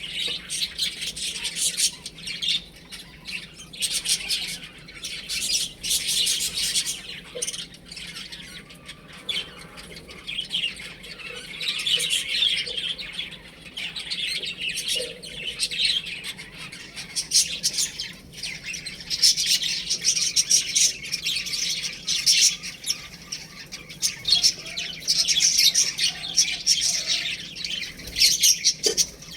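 Baby chicks peeping: many high, overlapping chirps, coming in dense bouts with brief lulls.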